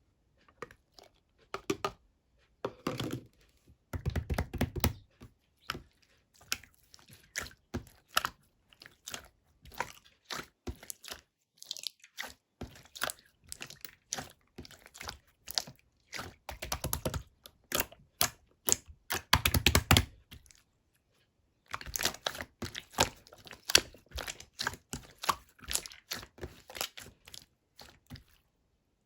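Slime being squished and worked by hand, making dense runs of small wet clicks and crackles in irregular bursts, with a short pause about two-thirds of the way through.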